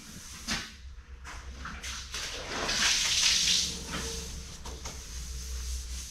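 Washing up in a dairy milk house: a rush of running water about two and a half seconds in, lasting about a second, among a few knocks of equipment, over a low steady hum.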